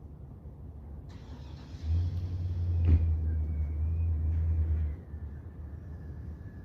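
Toyota 2ZZ-GE four-cylinder engine idling, a steady low rumble. It grows much louder for about three seconds in the middle, with a single click partway through.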